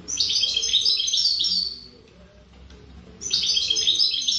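European goldfinch singing: two quick, rapid twittering phrases, each about a second and a half long, with a pause of about a second and a half between them.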